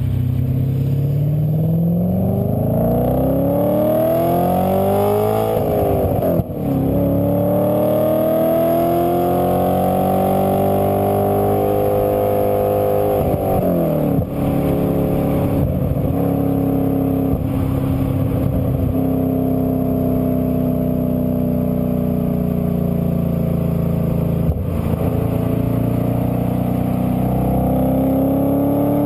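2008 Audi RS4's 4.2-litre V8 with a Milltek exhaust, heard from inside the cabin, accelerating hard: the revs climb, break briefly at upshifts about six and fourteen seconds in, run steadier through the middle, and climb again near the end.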